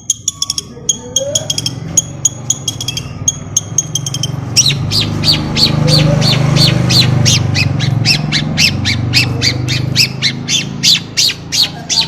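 Long-tailed shrike calling: quick chirps, then from about four seconds in a fast harsh chatter of about four notes a second, over a steady low hum.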